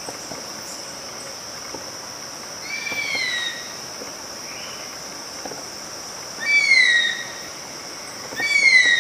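A bird calls three times, each call a short falling whistle under a second long, over a steady high-pitched insect drone.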